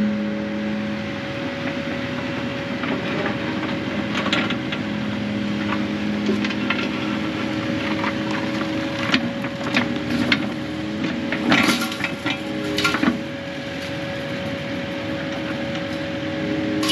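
Digging machine's diesel engine running steadily with a constant high whine. A cluster of cracks and knocks comes around the middle, loudest a little after halfway.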